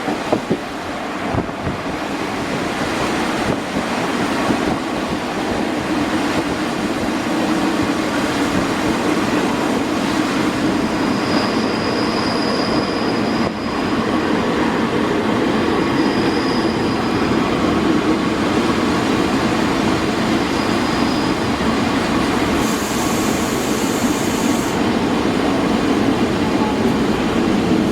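Train running on the track with a steady rumble of wheels on rail, growing slightly louder, a faint high whine around the middle and a short hiss near the end.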